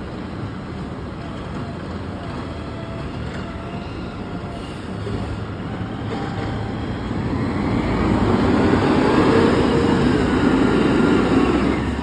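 Garbage truck engine running as the truck approaches, growing louder from about halfway through and loudest near the end.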